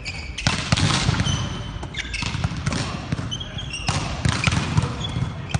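Volleyball practice on an indoor court: balls being struck and bouncing on the floor in quick, irregular thuds, with short high squeaks scattered through.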